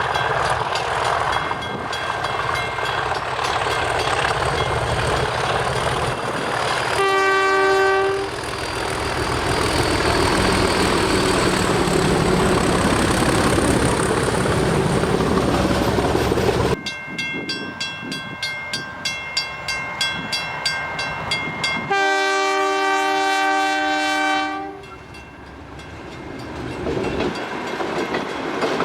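Diesel freight train passing: locomotive engines and wagons running loudly, with a chord horn sounding for about a second around seven seconds in. After an abrupt cut, wheels click over rail joints in a quick rhythm, and the horn sounds again for about three seconds before the train noise drops away.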